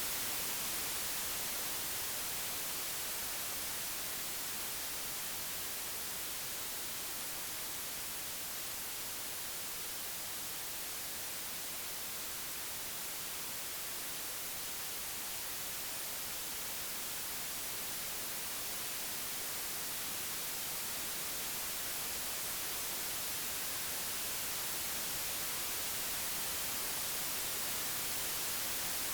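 Computer-generated white noise: an even, steady hiss across all pitches, with no tones or events. Its loudness eases down slightly toward the middle and rises back again.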